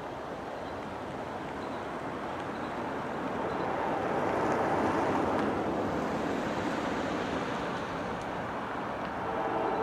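A train rolling past, the rushing noise of its wheels on the rails swelling louder about four seconds in. Steady sustained tones join near the end.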